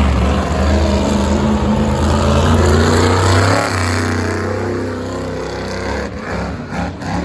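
Monster truck engine running hard at high revs, easing off about three and a half seconds in and running lower, with a few sharp knocks near the end.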